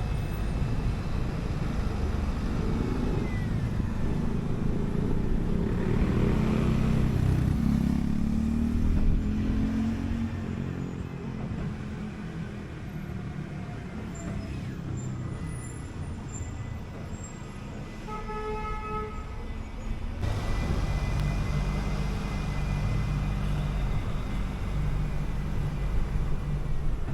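City bus engine running with road noise. The engine pulls up to speed in the first several seconds, then goes quieter for about ten seconds. A short pitched beep or horn sounds near the middle of the quiet stretch, and the engine picks up again about two-thirds of the way through.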